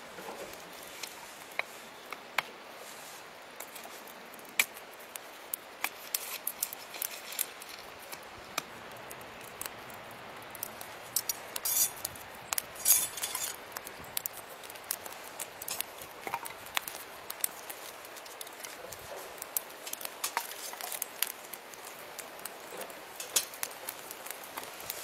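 Wood fire crackling, with irregular sharp pops and snaps over a low steady hiss and a busier run of pops about halfway through.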